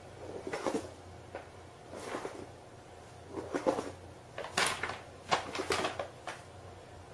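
A series of sharp knocks and clattering bumps in about five short clusters, loudest around the middle.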